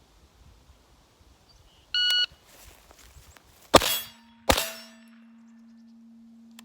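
A shot timer's short electronic start beep, then two 9mm shots from a Ruger PC9 carbine about three-quarters of a second apart. The AR500 steel target clangs and rings on with a low steady tone after the second hit.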